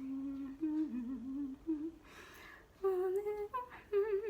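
A woman humming a wordless melody in short phrases, her held notes wavering with vibrato, with a short breath about two seconds in.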